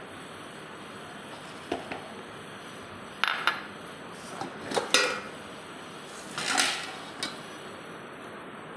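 Kitchen utensils and dishes clinking and clattering in several short bursts over a steady background hiss.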